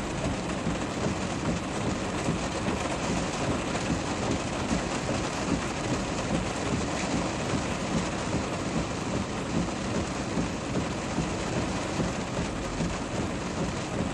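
Steady rain falling during a storm: a dense, even hiss with a constant fine pattering.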